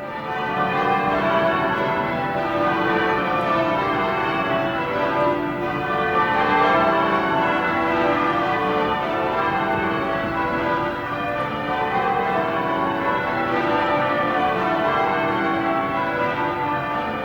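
Church bells pealing: many bells struck in quick succession, their ringing overlapping into a steady dense peal.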